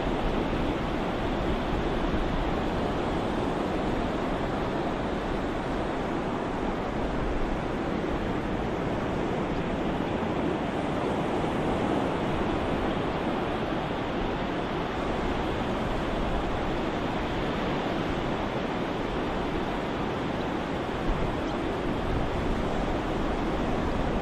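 Ocean surf as a steady, even wash of wave noise, without distinct swells or breaks.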